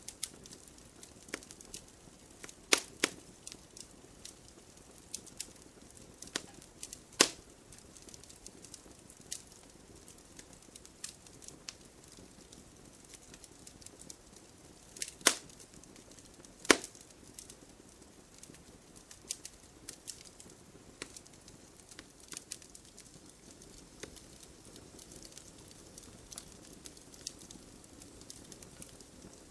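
Wood fire crackling: irregular sharp pops and snaps of burning wood over a faint steady hiss, with a few louder cracks about three, seven, fifteen and seventeen seconds in.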